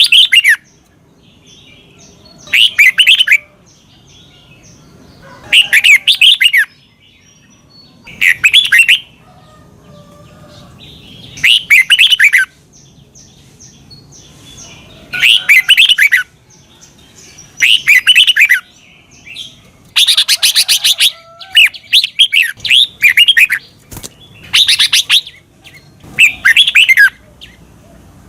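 Red-whiskered bulbul singing: short, bubbly whistled phrases about a second long, repeated every two to three seconds, with softer chirps between them. About two-thirds of the way through, a longer, harsher phrase comes in.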